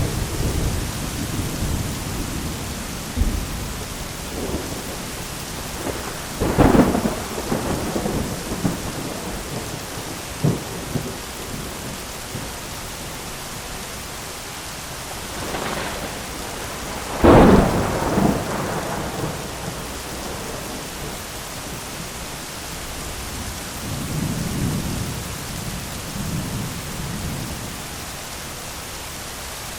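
Steady heavy rain falling on an umbrella, with two loud cracks of thunder, one about seven seconds in and one about seventeen seconds in, and a lower rumble of thunder near the end.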